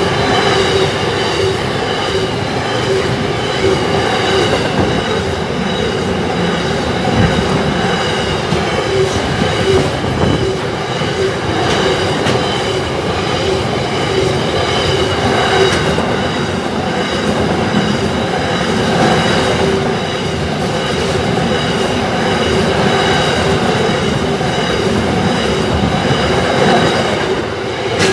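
Long intermodal freight train's container and box wagons rolling past close by: a continuous rumble and clatter of steel wheels on the rails.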